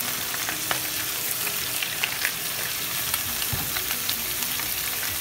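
Cabbage and sliced shiitake sizzling in bacon fat in a hot wok, stirred with a wooden spatula: a steady hiss with scattered pops and clicks.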